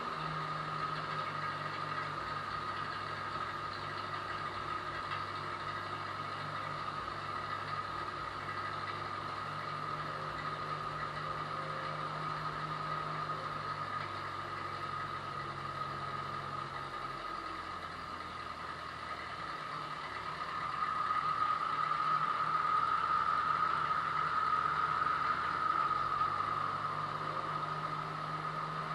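An engine running steadily at idle, with a steady high whine that grows louder for a few seconds near the end.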